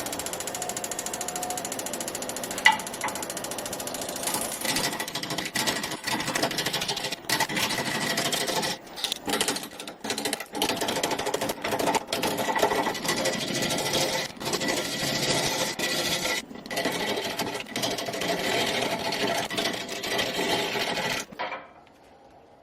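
Wood lathe spinning a Pacific yew log while a gouge rounds the blank, giving a rattling cut that breaks off briefly and starts again many times. There is one sharp knock about three seconds in, and the sound cuts off suddenly near the end.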